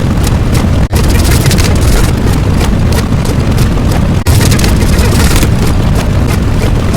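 Loud, steady rumbling noise with no clear pitch, cut off for an instant about a second in and again about four seconds in.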